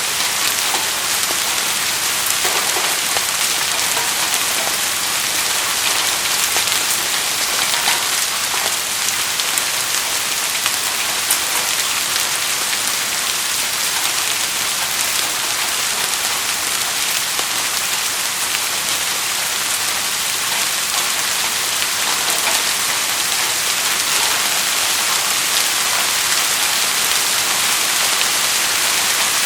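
Steady rain falling, an even hiss with scattered drop patter.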